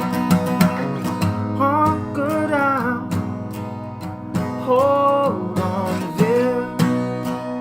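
Blues played on a strummed acoustic guitar, with a melody line above it that bends in pitch twice.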